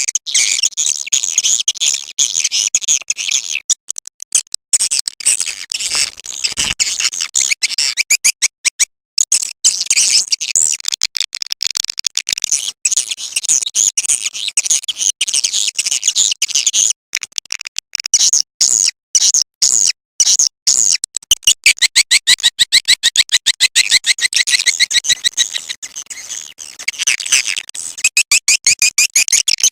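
Recorded swiftlet call sound, used as a lure for edible-nest swiftlets: rapid, high-pitched trains of twittering chirps and clicks that run in dense bursts broken by short gaps.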